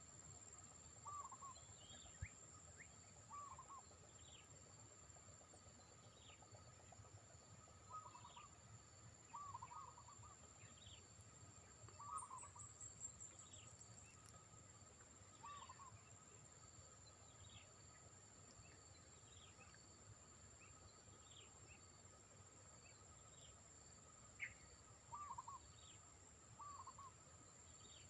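Faint bird calls: short curling notes repeated every second or two, with thin falling chirps between them, over a steady high-pitched insect drone.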